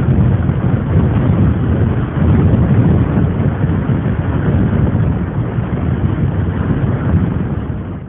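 Strong wind buffeting a cell phone's microphone: a loud, rough, low rumble that rises and falls irregularly.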